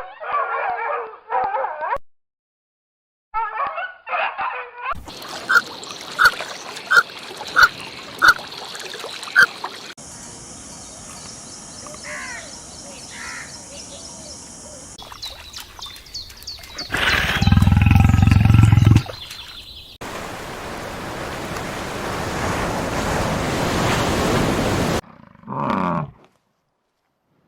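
A string of short animal-call clips spliced together with abrupt cuts and brief silences, each a different animal. One clip has six evenly spaced sharp calls, and the loudest is a deep, low sound about two-thirds of the way through.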